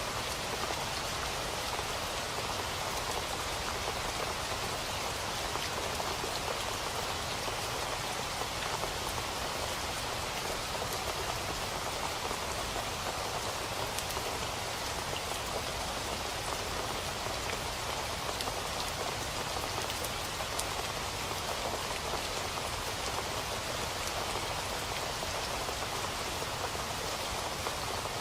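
Steady rain falling, an even hiss of many drops hitting a surface, with faint individual drop ticks scattered through it.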